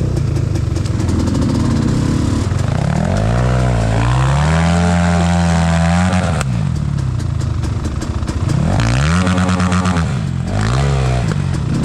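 Enduro motorcycle engine revving hard in surges: it climbs and holds high for a couple of seconds, drops, then revs up again twice, the second time only briefly.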